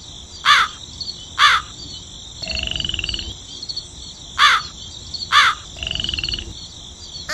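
Animal calls in a repeating pattern, played twice: two short, sharp calls that fall in pitch, about a second apart, then a buzzy, croaking call lasting about half a second. A steady high hum runs underneath. The identical repeat suggests a looped animal-sound track.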